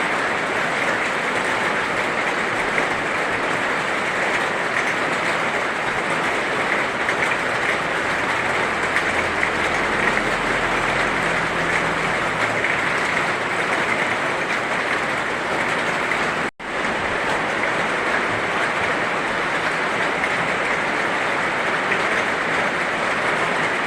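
Heavy rain falling steadily: a dense, even hiss. It cuts out for an instant about two-thirds of the way through.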